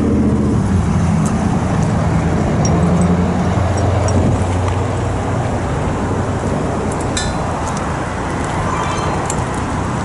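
Vehicle engine running with road and traffic noise; a steady low hum is strongest over the first four seconds, then fades into a broader rumble, with a few light clicks about seven seconds in.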